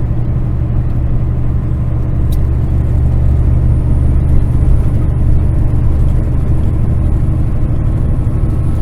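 Kenworth semi truck's diesel engine and road noise heard inside the cab: a steady low rumble as the truck rolls along at easy, low speed.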